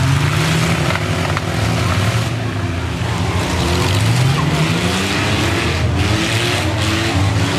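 Several demolition-derby minivan and pickup engines revving, their pitches rising and falling over one another, with one clear rising rev about halfway through.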